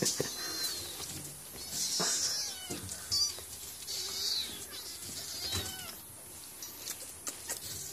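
Kittens meowing repeatedly with thin, high-pitched mews, several calls a few seconds apart, some wavering in pitch, with a few soft knocks among them.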